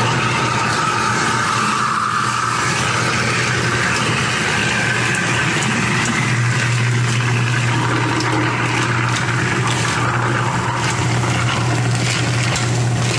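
Kitchen garbage disposal switched on, its motor humming steadily while it grinds ice cubes, with scattered rattling clicks in the second half. The ice chips scour the grinding chamber clean.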